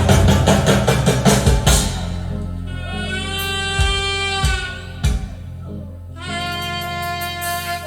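Live jazz band music played back from cassette: a dense, driving rhythm section for about the first two seconds, then a horn holding long wailing notes over a low sustained bass, moving to a new note about six seconds in.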